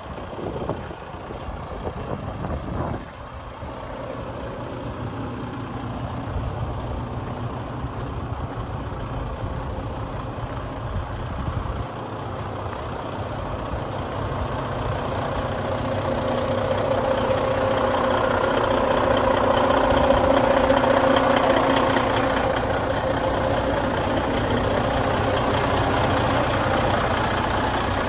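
Detroit DD16 diesel engine of a Freightliner 122SD truck idling steadily, growing louder about halfway through and then holding.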